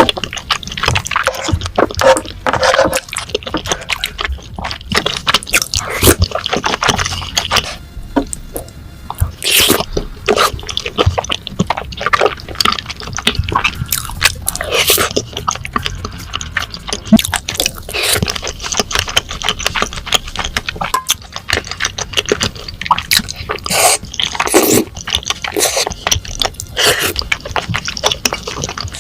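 Close-miked eating sounds of cheesy rose tteokbokki: wet, sticky chewing and squishing of chewy rice cakes in creamy sauce, in short irregular bursts.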